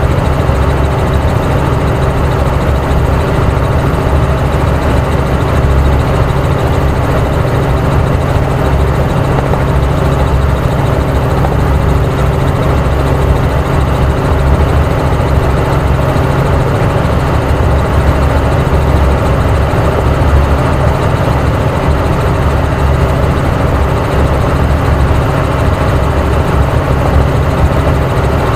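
Helicopter in flight, a loud, steady drone of rotor and engine that holds level without change.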